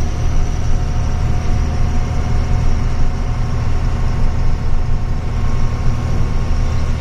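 Truck engine running steadily, a low drone heard from inside the cab.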